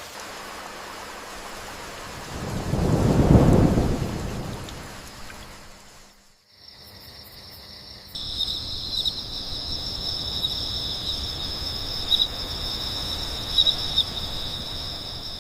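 Steady rain with a low roll of thunder a couple of seconds in that swells and slowly dies away. After a brief dropout, insects trill steadily at a high pitch over the rain for the rest.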